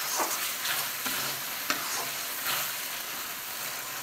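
Onion-tomato masala with potato pieces sizzling in oil in a pan while a spatula stirs and scrapes it, several strokes in the first couple of seconds over a steady frying hiss. The masala is being fried down slowly until its colour develops.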